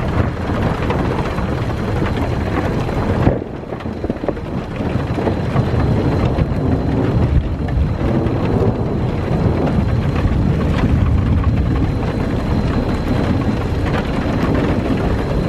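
Steady rain with a long, low rumble of thunder from a supercell thunderstorm. The sound drops briefly about three seconds in, then builds again.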